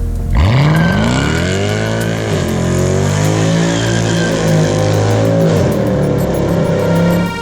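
Mercedes C63's naturally aspirated V8, catalytic converters deleted, revving hard: the note sweeps sharply up in pitch about half a second in, then holds high with a couple of dips in pitch.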